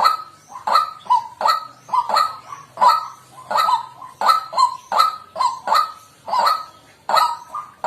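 White-breasted waterhen calling: an unbroken run of loud, harsh 'kwak' notes, about three a second.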